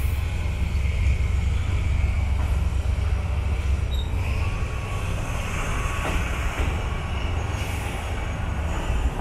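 Furano-Biei Norokko train running alongside a station platform: a steady low rumble from the train and its wheels on the rails, easing a little about halfway through as the train comes into the station.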